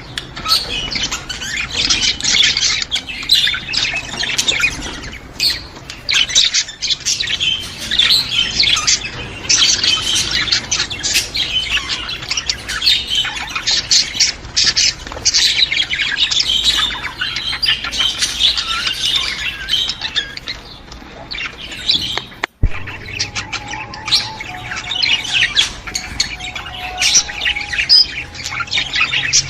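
A flock of budgerigars chattering continuously, a dense mix of high chirps, warbles and squawks, with a very brief dropout about two-thirds of the way through.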